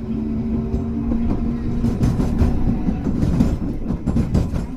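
Hankai Tramway car 351 running, heard from on board: a steady motor hum at first, then from about two seconds in a rapid clatter of the wheels over rail joints and track.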